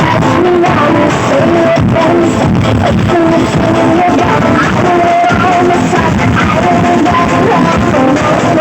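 Loud music played through a large parade sound system, a held melody line moving over a heavy, constant bass.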